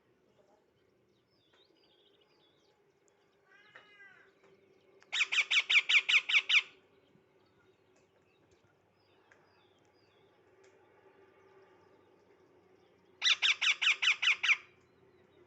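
Baby parrot calling: a short call, then two bursts of rapid squawks, each about ten calls in a second and a half, the second burst near the end.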